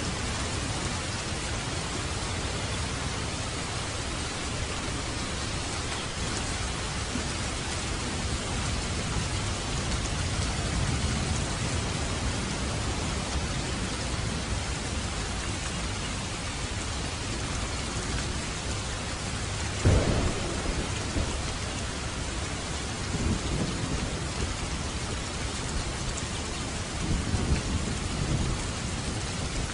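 Heavy rain falling steadily on a road and foliage, with a sharp clap of thunder about two-thirds of the way in, followed by lower rolls of thunder near the end.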